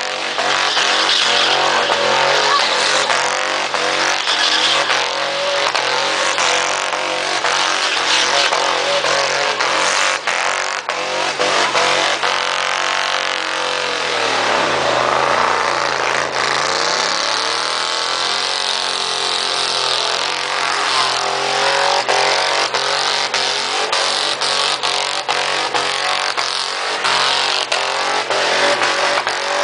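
Mini truck's engine held at high revs during a burnout, its spinning tyres making a continuous harsh hiss. About halfway through, the revs drop sharply and climb back up. The second half carries many sharp cracks.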